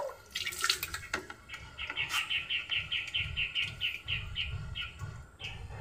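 A bird calling a quick run of some fifteen evenly spaced high chirps, about five a second, lasting about three seconds. Before it, near the start, there is a short splash of water being poured from a plastic dipper onto the potted plant.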